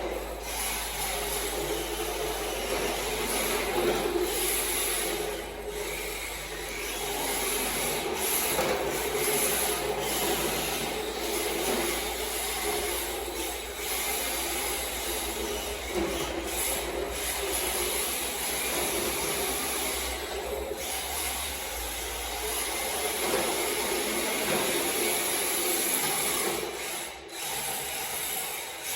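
MST RMX 2.0 RC drift car driving and sliding, its hard drift tires scrubbing on the floor while the electric motor whines, the whine swelling and dropping every few seconds as the throttle is worked.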